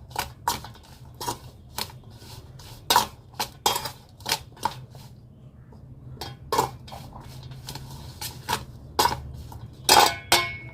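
A spoon clinking and scraping irregularly against a bowl while tossing cut okra (lady's finger) with spice powders, with a few louder clatters.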